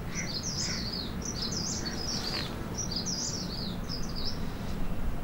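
Small songbird chirping: a rapid run of short, high, sweeping notes for about four seconds, fading out near the end, over low steady background noise.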